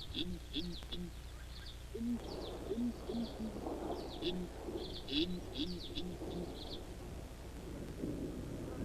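Doves cooing in repeated short low phrases, with high, quick chirps of small birds over them. A low rumble of distant thunder begins to build near the end.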